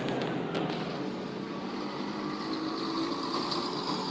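A motor vehicle's engine running steadily, with a few faint clicks at the very start.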